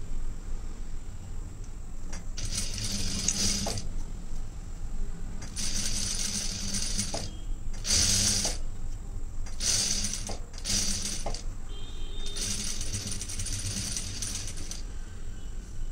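Sewing machine stitching a blouse seam in short runs, starting and stopping about six times with brief pauses between, the longest run lasting a couple of seconds.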